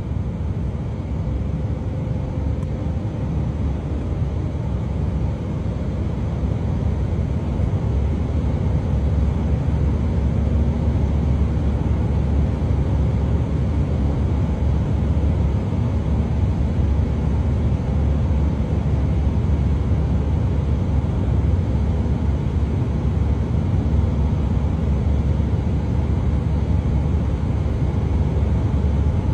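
Airliner cabin noise from the engines and airflow, a steady low rush that grows louder over the first ten seconds or so and then holds.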